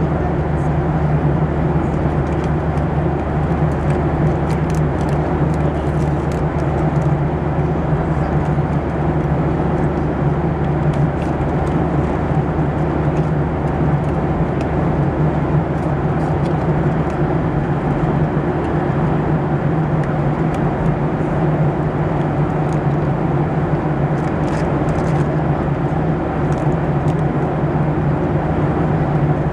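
Steady in-flight cabin noise of a Boeing 737-700: the drone of its CFM56-7B engines and the rush of airflow past the fuselage, with a constant low hum.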